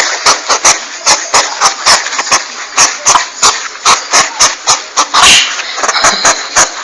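Porcupine sounds from a lure recording: a fast, uneven run of sharp clicks, about three a second.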